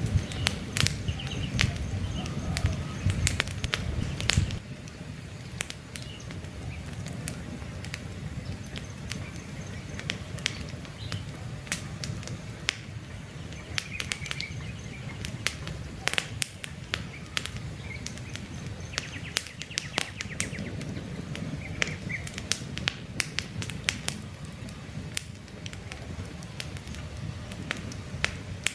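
Campfire logs crackling with frequent sharp pops, over a low rumble of flame that drops away about four seconds in. Birds chirp faintly now and then.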